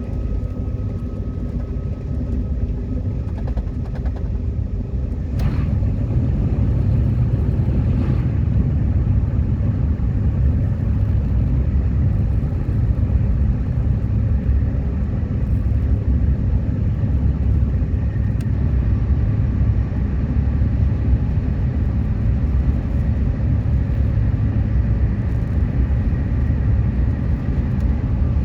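Metro train running along the track, heard from inside the car: a steady low rumble that grows louder about five seconds in, with a sharp click there and another a few seconds later.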